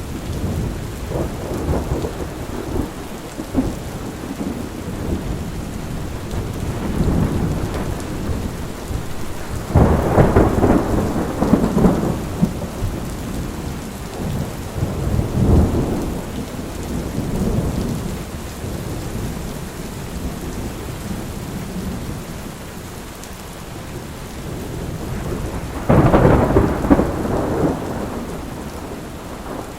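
Steady rain falling through a thunderstorm, with thunder rumbling several times; the loudest rumbles come about ten seconds in and near the end, each swelling and fading over a couple of seconds.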